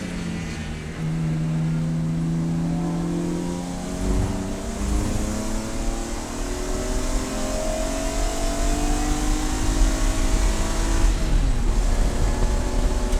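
Race car engine running under load: it holds a low pitch for the first few seconds, then revs climb slowly for several seconds before the pitch drops sharply about eleven seconds in, as on a lift or shift.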